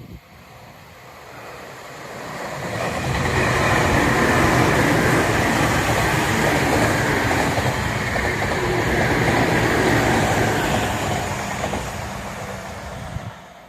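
Tobu Tojo Line electric train passing by: the rumble and rush build up over the first few seconds, stay loud for most of the pass, then fade and cut off shortly before the end.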